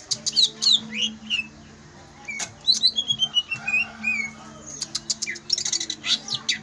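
Songbird singing a rapid song of sharp chirps and whistled notes, with a falling run of notes partway through, over a steady low hum.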